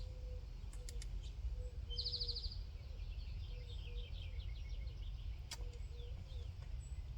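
Birds chirping, including a short rapid buzzy trill about two seconds in and a run of quick chirps after it, over a steady low outdoor rumble. Two faint sharp clicks, one near the start and one past the middle.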